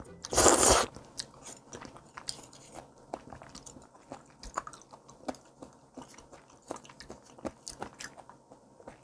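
Close-miked mouth sounds of eating a raw scallop topped with chojang. A brief loud slurp about half a second in as it is taken off the shell, then steady chewing with crisp little crunches from the firm, fresh scallop flesh.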